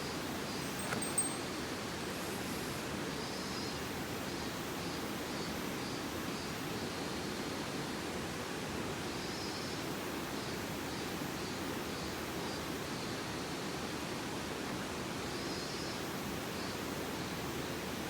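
Mountain stream flowing with a steady rushing sound. A small click comes about a second in, and faint high chirps come and go.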